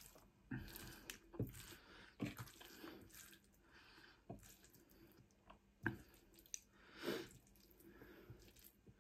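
Faint close-up chewing of soft, saucy food, wet mouth sounds between bites, with a few sharp clicks of a fork against the plate.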